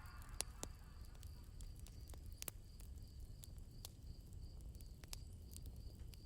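Campfire crackling softly, with scattered sharp pops, over a low rumble and the faint, even chirping of crickets.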